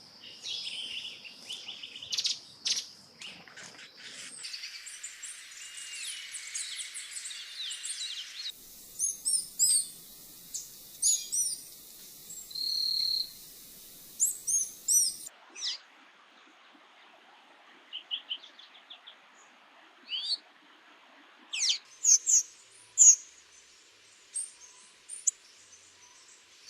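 A run of different tanager recordings spliced one after another: short, high, thin chirps and call notes with brief trills and a buzzy note, the background noise changing suddenly at each cut.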